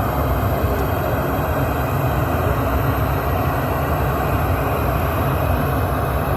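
Miniature sound-system rig playing a loud, steady, bass-heavy rumbling noise with no clear tune.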